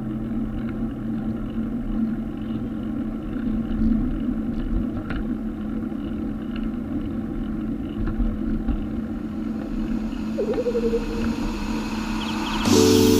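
Road traffic rumble, a steady low noise with a held low hum; music begins near the end.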